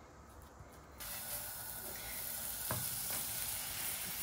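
A rolled paratha sizzling on a hot frying pan: a steady hiss that starts suddenly about a second in, with one soft knock about halfway through.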